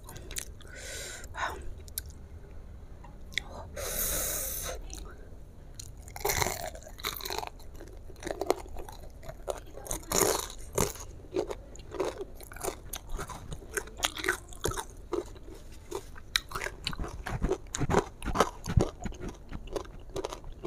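Crispy fried chicken being bitten and chewed close to the microphone, the breaded coating crunching in a quick, dense run of crackles. There is a brief hiss about four seconds in.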